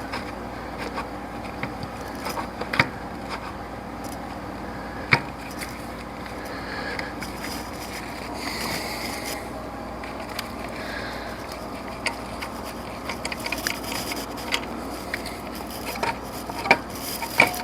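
Hand tools and metal engine parts clicking, tapping and scraping while an alternator is worked into its mounting bracket, with a few sharper knocks among the small clicks.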